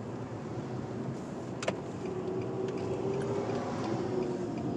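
Car driving, engine and road noise heard from inside the cabin, steady, with a single sharp click about a second and a half in and a faint hum joining about two seconds in.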